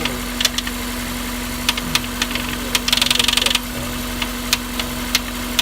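Honda S2000's F20C four-cylinder engine idling, with irregular sharp ticks over the steady running and a brief quick rattle of clicks about three seconds in. The tick is unexplained: the owner has fitted a new OEM timing chain tensioner and found the rod bearings, thrust bearing, head, cams and retainers within spec.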